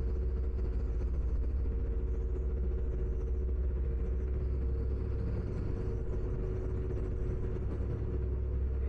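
A ferry's engines running: a steady low rumble with a constant droning hum.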